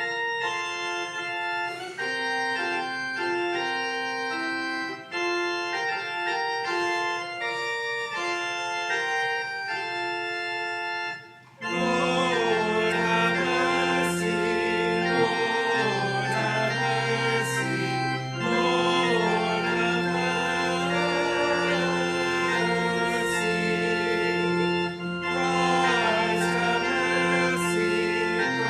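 Organ playing sustained chords, softly in the upper register at first; about twelve seconds in it swells into a fuller sound with low bass notes underneath.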